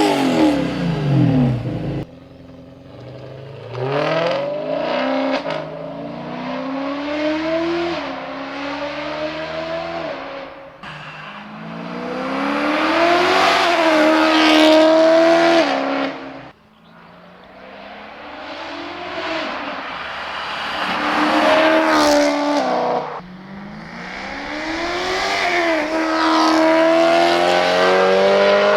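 V8-swapped BMW 1M accelerating hard through the gears. The engine note climbs in pitch through several long pulls, each ending in a sudden drop at the upshift. The loudest pulls come about halfway through and near the end.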